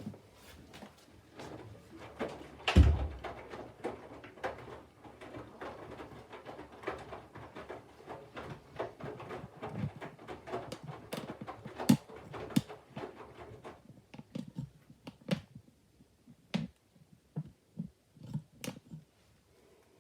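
Candy front-loading washing machine's drum tumbling a wet load of laundry, a busy run of soft irregular thuds and knocks with one louder thump about three seconds in. After about fourteen seconds it thins to a few separate thuds.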